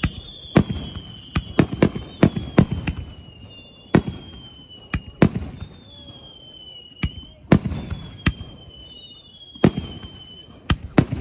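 Fireworks display: sharp aerial shell bursts going off at irregular intervals, some with a lingering boom, about fifteen in all. Between them, high whistling tones slide slowly down in pitch, each lasting about a second.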